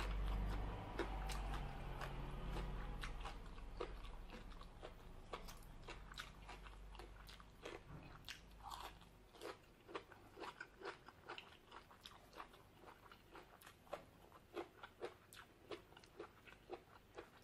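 Close-miked chewing and biting of crunchy green papaya salad and raw vegetables: a steady stream of short crisp crunches and mouth clicks, sharper and more frequent in the second half, with a low rumble that fades out over the first few seconds.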